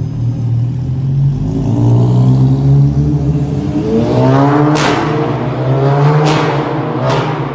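Volkswagen Golf GTI Mk7 exhaust: the engine revs up, its pitch climbing over a few seconds and then holding. About halfway in, several sharp cracks follow, four in all.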